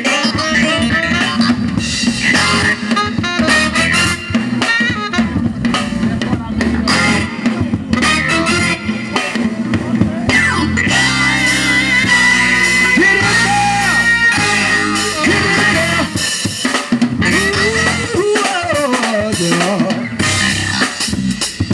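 A live band playing an R&B/funk groove: a drum kit with snare and bass drum under guitar and bass. Sustained and gliding instrumental lines come in midway.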